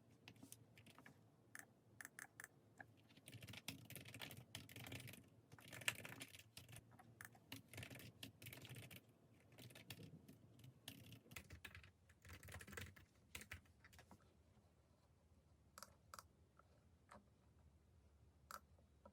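Faint typing on a keyboard, quick runs of keystrokes that thin out to a few scattered clicks over the last few seconds.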